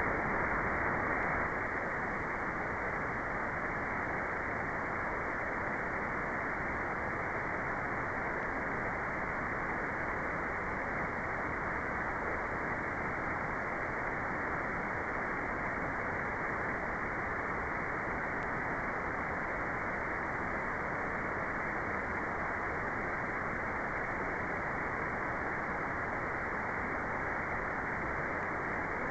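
Steady white noise generated electronically: an even, unbroken hiss with no changes in it. Everything above the middle of the range is cut away, so it is heard as a muffled rush rather than a bright hiss.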